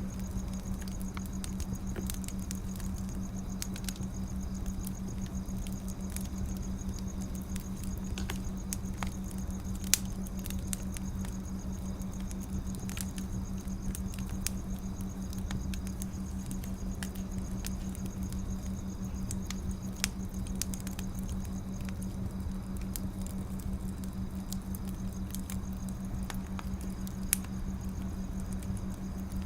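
Wood fire crackling: a steady scatter of small pops with a few louder snaps, about 10, 20 and 27 seconds in, over a steady low hum.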